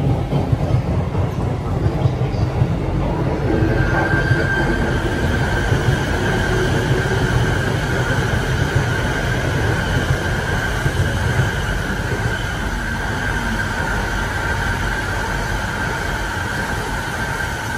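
Saikyo Line commuter train pulling out of the station with a Shinkansen passing alongside: a steady low rumble of wheels and motors, joined about three and a half seconds in by a steady high tone that holds to the end.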